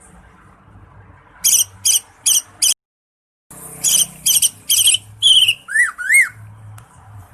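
Cucak ijo (green leafbird) singing: a series of loud, sharp, repeated whistled notes, a brief cut-out in the sound, then more rapid notes ending in two arched whistles.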